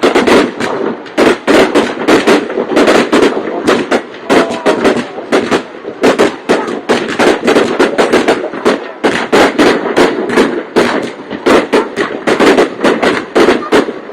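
Aerial fireworks bursting without a break, a dense run of overlapping bangs and crackles several times a second.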